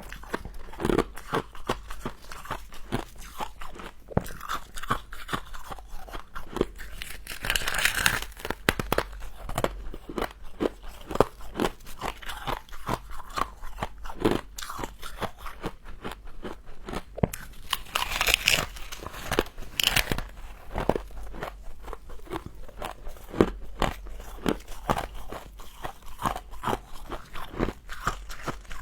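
Close-up chewing and crunching of frozen frost, a dense run of irregular sharp crunches, with brighter crackling spells about 8 and 18 seconds in.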